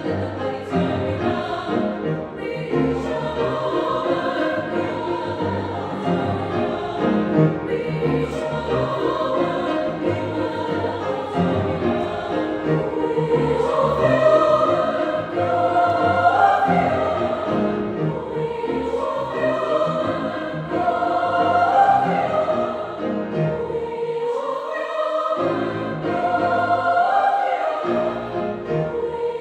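A large choir singing in many-part harmony, with a low bass layer underneath that drops out twice near the end.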